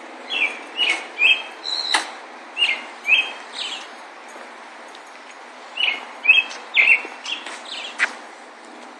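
A songbird chirping in two bouts of quick, short notes, one about a third of a second in and another about six seconds in, over steady outdoor background noise, with a couple of sharp clicks among the notes.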